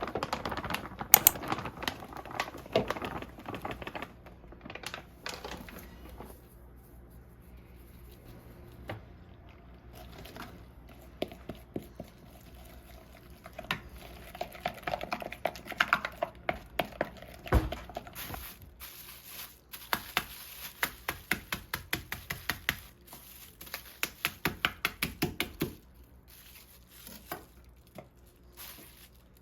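Kitchen cooking sounds: dishes and utensils clinking and knocking. In the second half there is a run of quick, regular sharp taps, a few a second.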